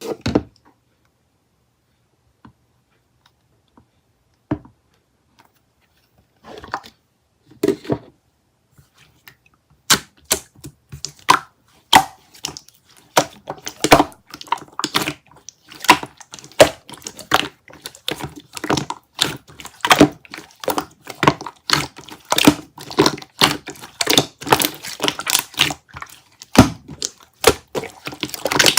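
A few sparse clicks, then from about ten seconds in a dense, irregular run of sharp clicks and taps, several a second.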